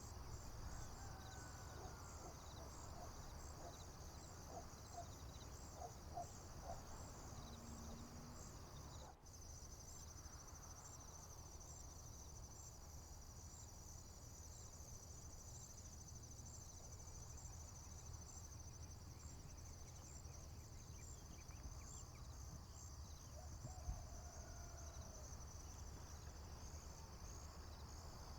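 Crickets chirping in a steady high-pitched pulsing chorus over a low rumble, with a few faint bird calls in the first third and again near the end.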